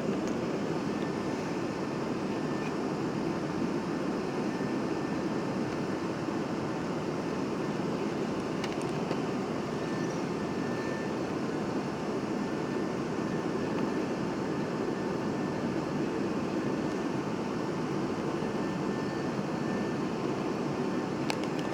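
Steady cabin noise inside a Boeing 737-800: the even rush of airflow and engine noise, with a faint steady high whine running under it.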